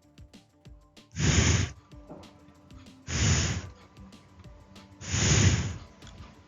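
Three loud breathy hisses, each about half a second long and about two seconds apart, like the /f/ sound blown out close to a microphone, over soft background music.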